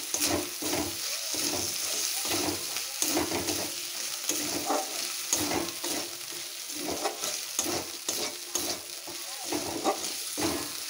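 Chopped tomato frying in oil with onion and ginger-garlic paste in a steel kadai, sizzling steadily, while a metal spatula scrapes and knocks against the pan in quick, irregular strokes.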